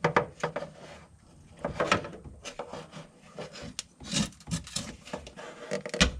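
A 5/16 fuel line removal tool being slid and pushed onto a fuel filter's quick-connect line fitting: irregular scraping, rubbing and small clicks, with a sharper knock near the end.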